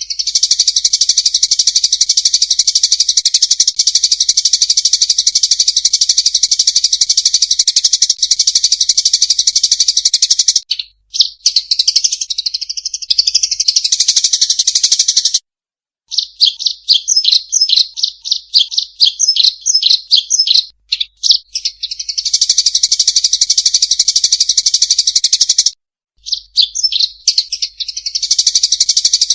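Eurasian tree sparrows giving loud, rapid, continuous chirping calls, the agitated chattering of sparrows in a fight. The calls break off briefly three or four times.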